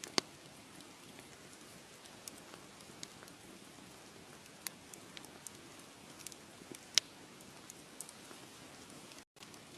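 Wood fire crackling: irregular sharp pops and snaps over a steady soft hiss, the loudest pops just after the start and about seven seconds in. The sound cuts out for a split second near the end.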